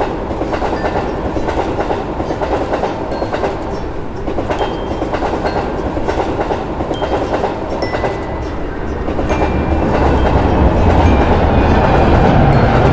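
Train running along the track, its wheels giving a steady clickety-clack over the rail joints with a low rumble. It grows louder and heavier about ten seconds in.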